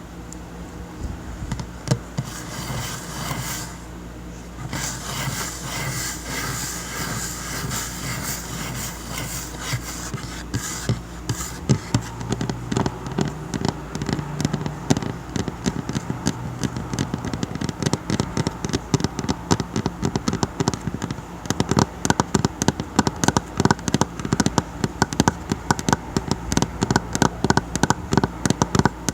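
Fingers tapping on a tabletop, scattered taps at first, then a quick, steady run of several taps a second over the last third, over a low steady hum.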